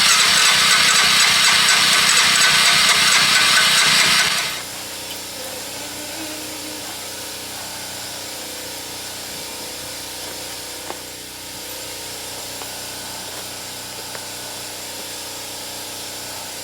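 ATV engine being turned over by its electric starter without catching, a steady cranking that stops about four and a half seconds in; the machine will not start, a fault the owners suspect lies in the carburetor. A fainter steady hum remains afterwards.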